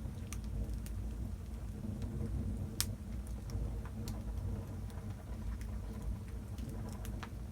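Wood fire burning in a fireplace: a steady low rumble of flame with irregular sharp crackles and pops from the burning logs, the loudest pop about three seconds in.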